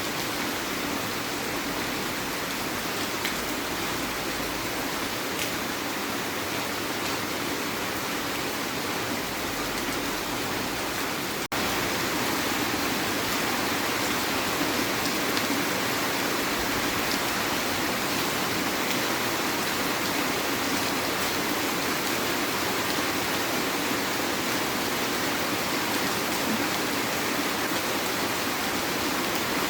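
Heavy rain falling steadily. There is a brief cut in the sound about eleven and a half seconds in, after which the rain is a little louder.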